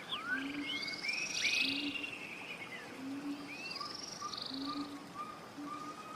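Several forest birds calling together: quick rising and falling whistles and buzzy trills, busiest in the first two seconds. Under them, a low short note repeats steadily about every two-thirds of a second, with a run of short mid-pitched notes in the second half.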